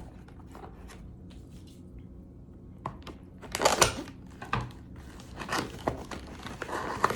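Paper packaging being torn open and crinkled by hand, in irregular bursts that are loudest about halfway through.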